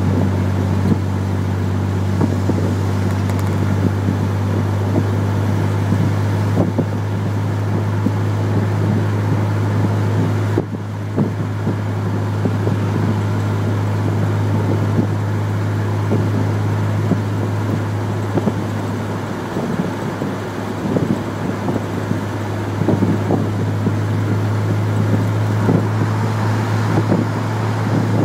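Chevrolet Corvair's air-cooled flat-six engine droning steadily inside the cabin while driving, with road and wind noise. The engine note dips briefly about ten seconds in, settles a little lower partway through, and rises again near the end.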